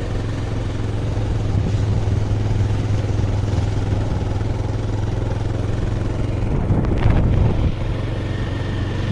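A vehicle's engine running steadily under way, with road noise, and a brief louder swell about seven seconds in.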